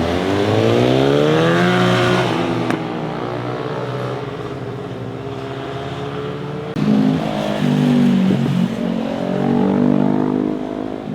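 Motorcycle engines revving as they pass: one engine's note climbs over the first two seconds, then holds steady. About seven seconds in, a louder burst of revving comes in suddenly and rises and falls through the gears.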